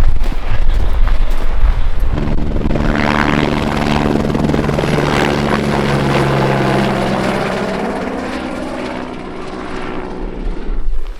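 Helicopter passing close by, its engine and rotor sound coming in about two seconds in and fading away near the end, with wind buffeting the microphone.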